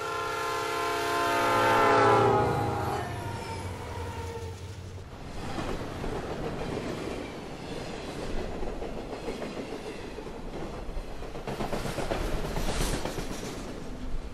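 Train horn sounding as a chord that drops in pitch as it passes, about two to three seconds in, followed by the long rumble and clatter of a train going by.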